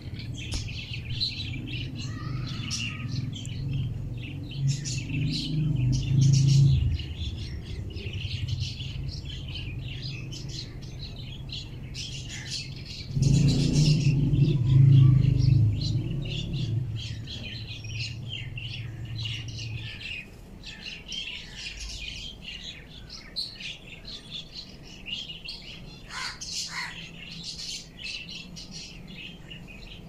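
Rapid, high bird chirping and twittering throughout, with a low hum that swells twice, around six seconds in and again around fourteen seconds in.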